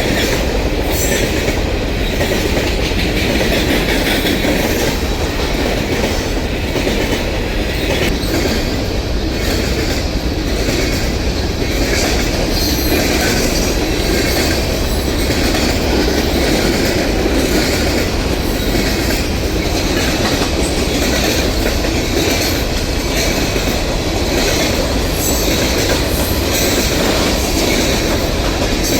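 A train rolling steadily past, its wheels clicking over the rail joints in a continuous clatter.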